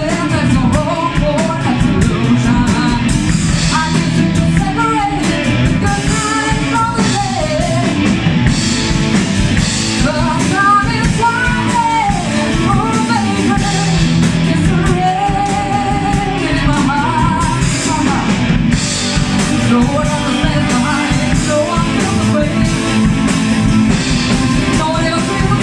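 A rock band playing with guitars, bass and drum kit, under a melodic lead line that wavers with vibrato.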